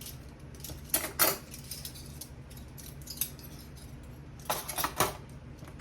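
Dishes being handled while loading a dishwasher: short bursts of clinks and rattles, one about a second in, a single click midway and another burst near the end.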